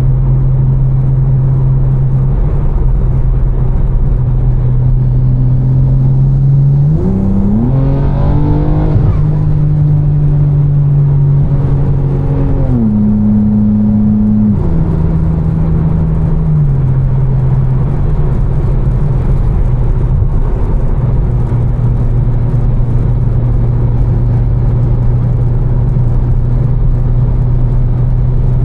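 Tuned BMW M4 with catless downpipes and an Fi exhaust, cruising with a steady engine note. About a quarter of the way in the revs climb and hold briefly, then step back down three times to a steady cruise.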